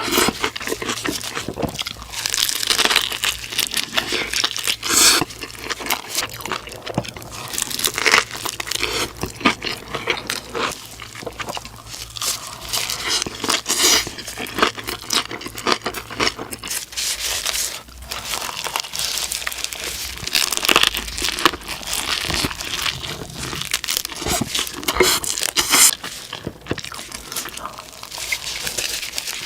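Close-miked eating sounds: a person biting and chewing food, with a dense run of short crackles and clicks.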